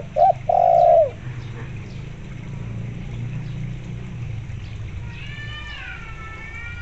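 Spotted dove (tekukur) cooing: two short notes and then a longer one that drops in pitch at its end, all within about the first second. A fainter, higher bird call with several wavering tones comes in near the end, over a low steady hum.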